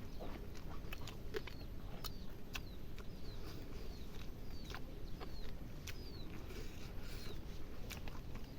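Close-up mouth sounds of eating: wet chewing, lip smacks and clicks, with short high falling squeaks about twice a second.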